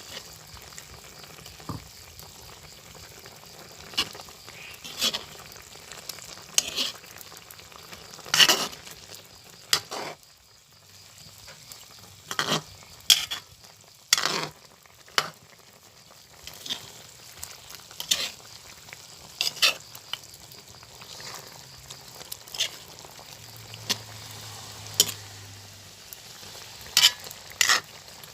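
Chicken cooking in a hot pan with a steady sizzle, while a utensil stirs it, knocking and scraping against the pan at irregular moments.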